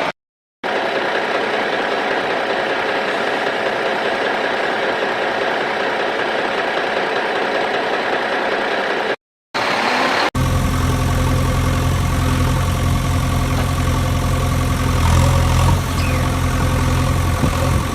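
Vehicle engine running, heard across clips joined by cuts: an even noisy rumble for the first half, then after two short breaks a steady, deep engine hum for the rest.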